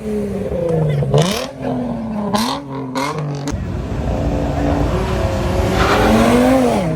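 A car accelerating hard through the gears. The engine note climbs and drops sharply at each of several quick upshifts, with short cracks at the shifts. It then holds a long climb in a higher gear that falls away near the end.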